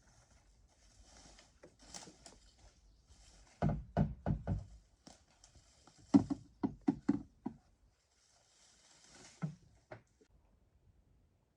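Two quick runs of dull knocks, four or five in the first and about six in the second, with a single knock near the end.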